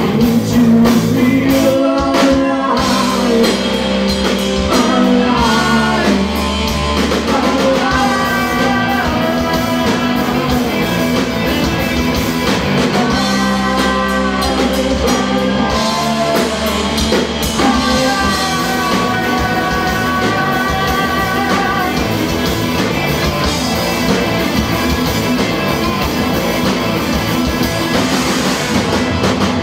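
Live rock band playing, with electric guitar, drum kit and a sung melody.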